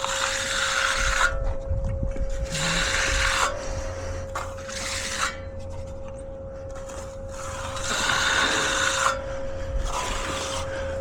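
A hand finishing tool scraped across concrete in repeated strokes, each about a second long, every two to three seconds, with a steady hum underneath.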